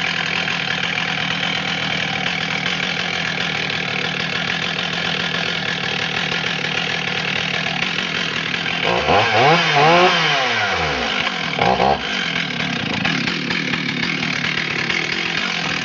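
Stihl 044 Magnum, a 70cc two-stroke chainsaw, running steadily, revved up once about nine seconds in and let back down, with a short throttle blip about two seconds later.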